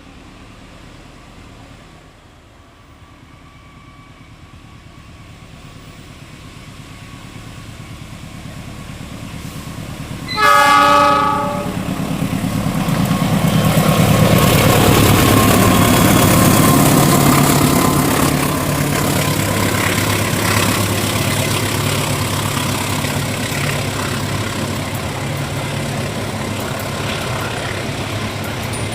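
Argo Wilis passenger train approaching, its rumble growing louder, then its locomotive horn sounding one blast of about a second some ten seconds in. The train then runs close by with a loud steady rumble of wheels and engine on the rails, loudest for a few seconds just after the horn.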